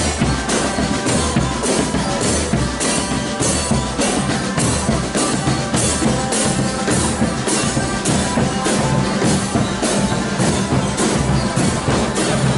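Marching drum band playing: snare and bass drums beat a steady rhythm about two strokes a second, with held melodic notes over them.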